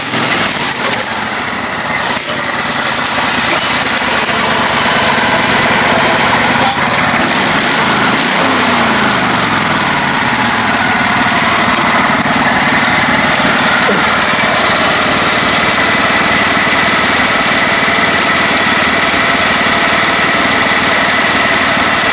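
Lifted, modified riding lawn mower engine running hard under load off-road, its revs rising and falling in the first few seconds and again near the middle. A steady high whine sits over the engine in the second half.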